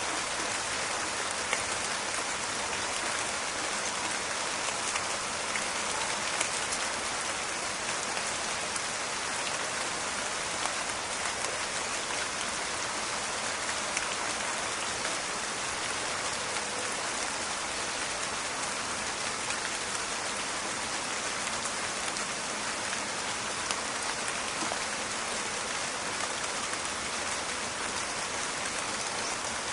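Steady rain falling in a forest, a dense even patter with scattered sharper drop clicks and crackles.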